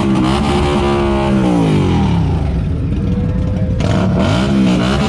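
A motorcycle engine revved twice. The pitch climbs and holds for about a second, falls back to idle, then rises and drops again about four seconds in.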